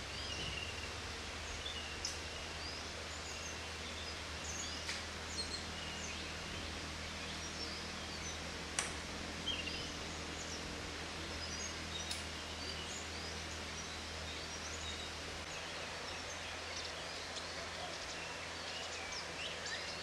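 Small birds giving many short, high-pitched chirps and calls scattered throughout, over a steady background hiss, with a few sharp clicks along the way.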